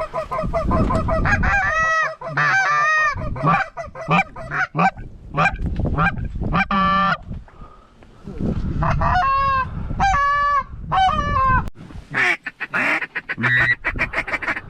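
Geese honking and clucking in a rapid, loud run of calls as a flock sets into the decoys. The calls pause briefly about halfway and thin out near the end.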